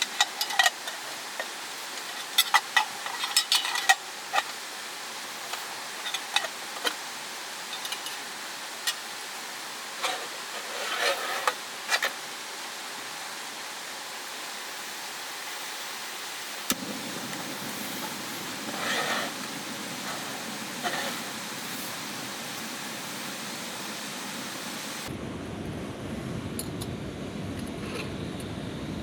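Steady rushing of a mountain stream, with scattered clicks and knocks from handling camp gear in the first part. The water sound changes suddenly twice and turns deeper near the end.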